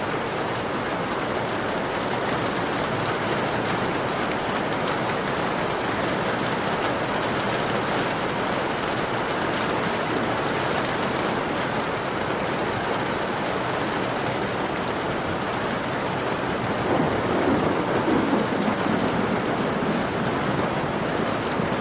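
Steady rain falling on a window pane. A low rumble of thunder swells about three quarters of the way through and fades out.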